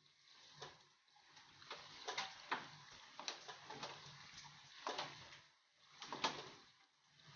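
Hands mixing gram flour into a wet pakora mix of chopped fenugreek, spinach, onion, potato and yogurt in a bowl: soft irregular squelches and clicks, a little louder about two and a half and six seconds in, over a faint low hum.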